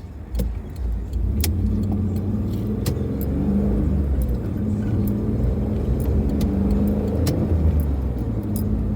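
Car engine and road noise heard from inside the moving car's cabin, a steady low hum that rises and falls a little in pitch. Scattered sharp clicks and light rattles come at uneven intervals.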